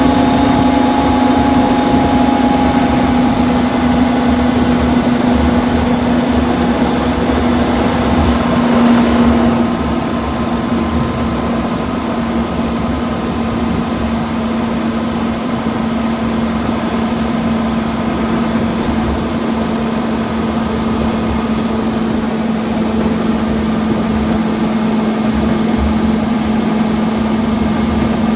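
Sentinel diesel shunter's Rolls-Royce diesel engine running steadily under way, heard from inside the cab. The engine note eases off slightly about ten seconds in, then slowly picks up again.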